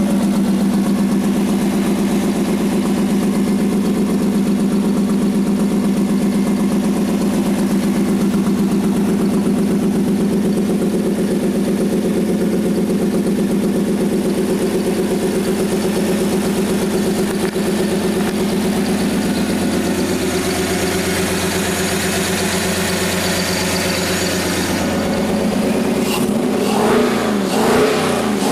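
Cadillac V8 swapped into a Toyota MR2, idling steadily. Near the end it is revved in several quick blips. The engine's number 8 cylinder is cracked.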